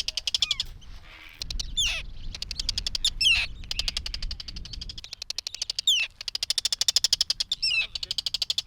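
Arctic terns calling: fast chattering trains of high notes broken by harsh, downward-sliding cries, several birds at once. Wind rumbles on the microphone for a few seconds partway through.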